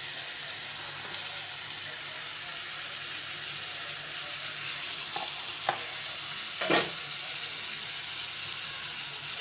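Chicken pieces frying in hot oil in a pan with whole spices, a steady sizzling hiss. A utensil knocks against the pan twice, a little past halfway, the second knock the louder.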